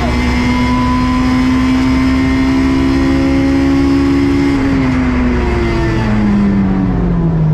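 Honda S2000 AP2's stock 2.2-litre four-cylinder engine running at a steady, slightly rising pitch, then dropping off about four and a half seconds in and falling lower near the end as the car slows.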